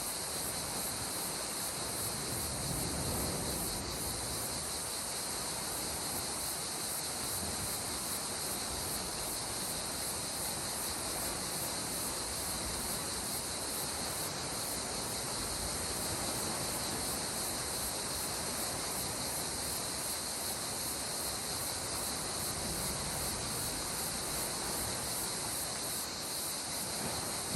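A steady, high-pitched chorus of insects over the soft, even wash of calm sea water, which swells gently a couple of times.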